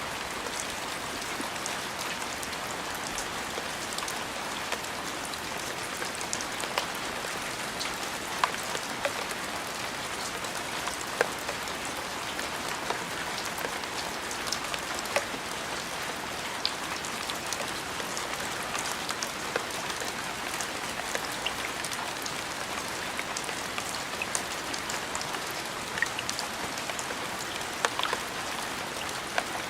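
Steady rainfall, an even hiss with scattered louder drops ticking close by.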